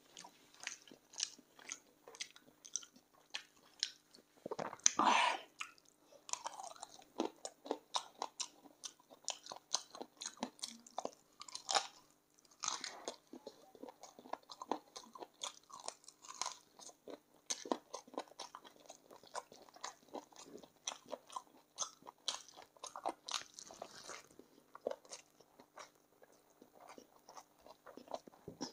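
A person chewing and biting chicken feet: a steady run of small crunches and clicks, with a louder burst about five seconds in.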